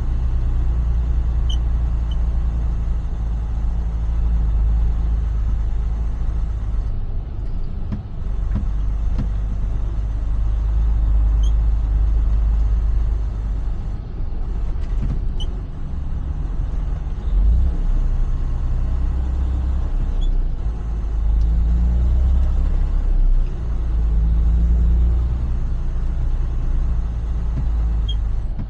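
Semi truck's diesel engine running as the truck drives, a deep steady rumble that dips briefly several times.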